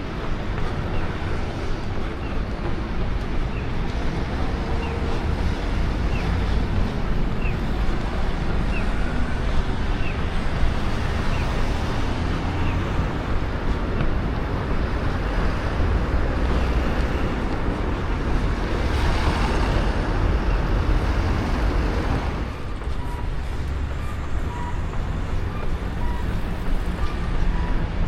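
Wind noise on a running action camera's microphone over road traffic, with a vehicle passing about two-thirds of the way through.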